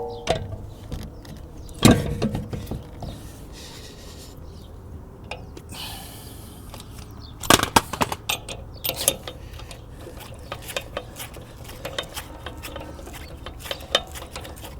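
Metal tools and wheel hardware clinking and knocking as a rear wheel spacer is being fitted: a sharp knock about two seconds in, a run of clicks and knocks past the middle, then scattered light clicks.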